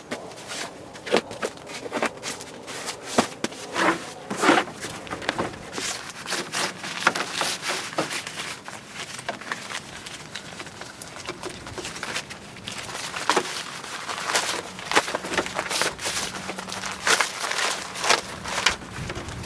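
Irregular crunching and crackling noises, a scatter of short clicks at uneven intervals.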